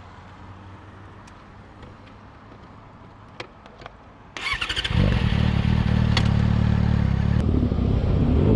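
A motorcycle engine starts about four seconds in, after a few light clicks, and then runs loudly and steadily.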